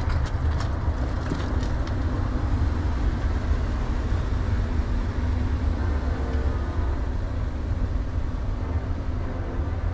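Steady low rumble of a car driving, heard from inside the cabin: road and engine noise with no change in speed.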